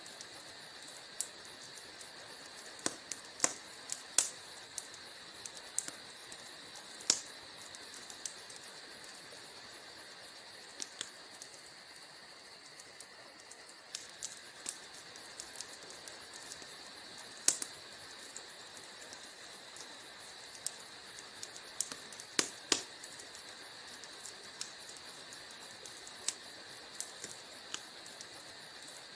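Wood fire crackling in a fireplace: irregular sharp pops and snaps over a steady hiss, with the loudest pops about 4, 7, 17 and 22 seconds in.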